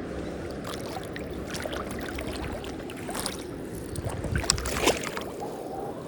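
River water rushing steadily, with a few short splashes and sloshes in the shallows, loudest about four to five seconds in.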